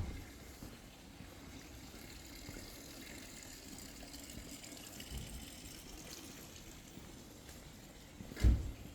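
Steady running water, with a dull low thump near the end.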